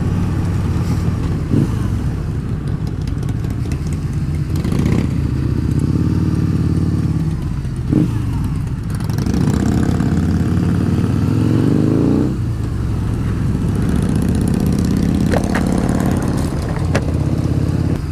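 Harley-Davidson V-Rod's liquid-cooled V-twin running under way on the road. Its pitch climbs between about nine and twelve seconds in as it accelerates, then drops suddenly at a gear change.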